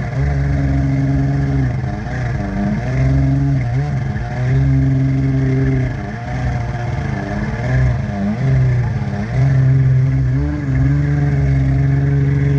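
Jet ski's two-stroke Yamaha 701 engine (ported like a 760) running hard, its pitch repeatedly sagging and picking back up every second or two. It is bogging because it is running way too rich and can't clean out.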